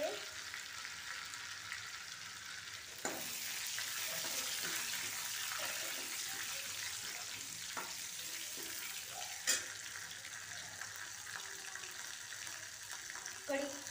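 Garlic and curry leaves sizzling in hot oil in a kadhai as they are stirred with a steel ladle, the tempering (tadka) stage of the dal. The sizzle grows louder about three seconds in, with a few sharp clicks.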